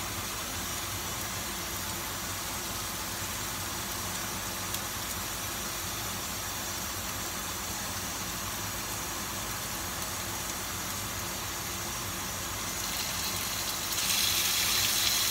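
A steady hum and hiss from a pan of garlic and onion on low heat. About 14 seconds in, a louder sizzle starts as raw chicken cubes are pushed into the hot oil.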